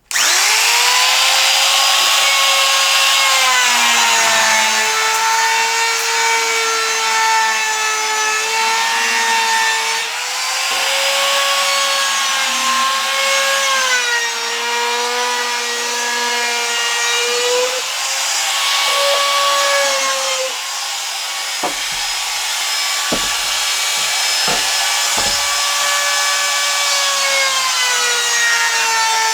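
Palm router fitted with a 1/4-inch roundover bit switched on and running at high speed with a high whine, its pitch sagging and recovering as the bit takes load rounding over the edge of a board. A few brief low knocks come around two-thirds of the way in.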